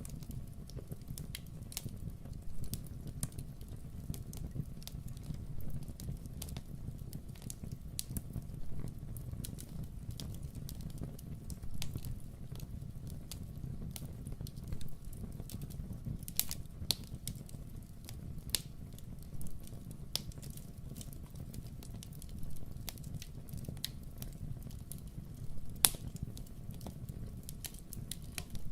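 Wood fire crackling in a fireplace: irregular sharp pops and snaps over a low, steady rumble, with a few louder pops about halfway through and again near the end.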